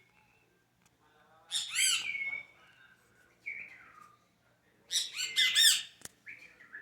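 A bird calling: two loud bouts of harsh, arching calls, the first about a second and a half in and the second about five seconds in, with shorter, softer calls between them.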